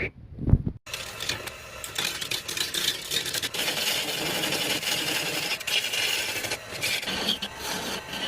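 Woodturning tool cutting into a spinning wood blank on a lathe: a continuous scraping, crackling cut that starts about a second in, after a couple of short knocks.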